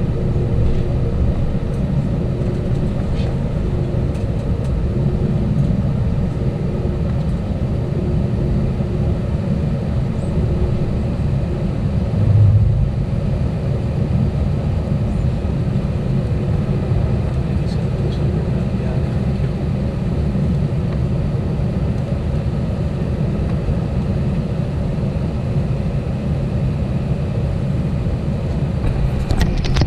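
Steady cabin noise inside an Airbus A320: an even low rumble of engines and airflow with a faint steady hum above it. A brief low thump comes about halfway through.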